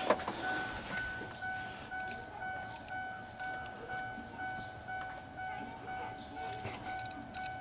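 Vehicle warning chime sounding in the cab of a 2002 Ford Explorer: a single-pitched electronic beep repeating about twice a second without stopping.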